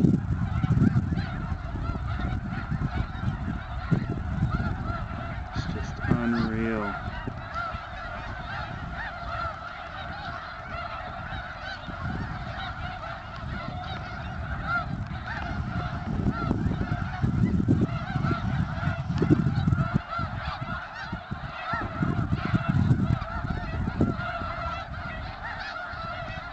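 A large flock of snow geese calling continuously, a dense chorus of many overlapping honks.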